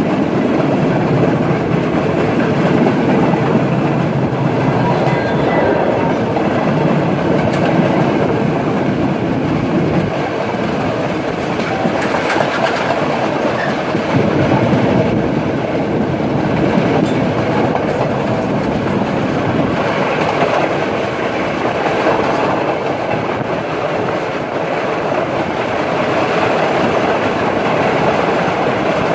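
Udaya Devi express passenger train running along the line: a steady rumble of wheels on rails with the clickety-clack of the wheels over rail joints.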